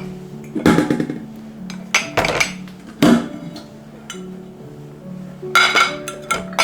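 Dishes and kitchenware clinking and clattering in several bursts, the loudest at about three seconds and again near the end, over soft instrumental background music.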